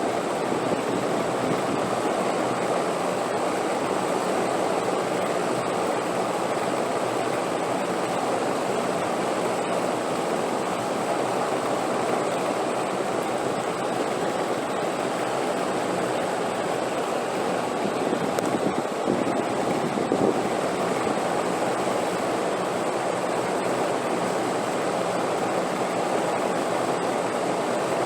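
Continuous rushing wind, an even noise with a brief swell about two-thirds of the way through and a faint steady high whine above it.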